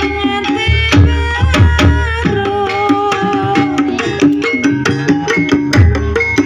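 Live Javanese gamelan music accompanying an ebeg horse-trance dance: kendang hand drums beat a driving rhythm under ringing pitched percussion notes, with a held, wavering melody line through the middle.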